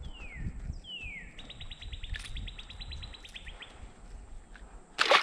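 A songbird singing: two falling whistled notes, then a fast trill of repeated notes at about nine a second lasting some two seconds. A short loud burst of noise comes near the end.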